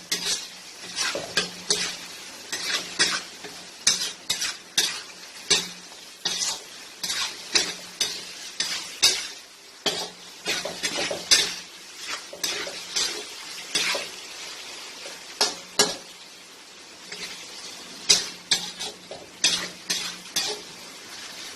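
Chicken pieces frying in oil with ginger-garlic paste and sizzling, while a spoon stirs them, scraping and knocking against the pan in irregular strokes, roughly one or two a second.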